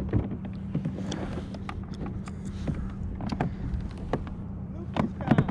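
Scattered clicks and knocks of gear being handled on a plastic kayak, loudest in a quick cluster about five seconds in, over a steady low hum.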